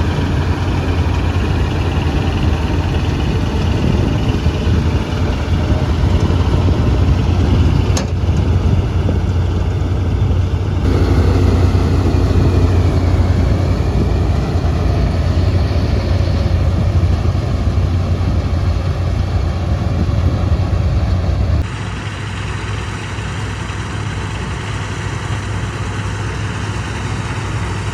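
Diesel engine of farm machinery, a tractor or combine harvester, running steadily with a deep hum. The sound changes abruptly a few times and drops in level about three-quarters of the way through.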